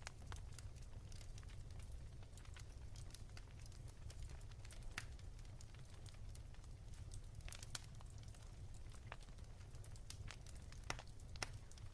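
Wood fire crackling softly, with irregular sharp pops and snaps, a few louder than the rest, over a steady low rumble.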